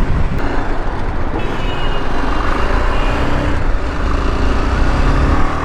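BMW G 310 GS's single-cylinder engine pulling under throttle at highway speed, its note rising slowly, under heavy wind buffeting on the microphone.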